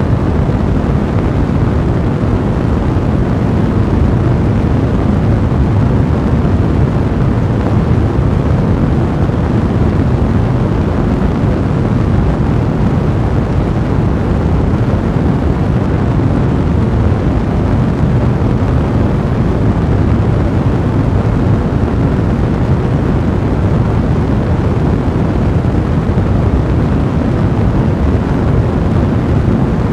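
Fire burning in a fireplace: a steady, dense, low rumbling blaze.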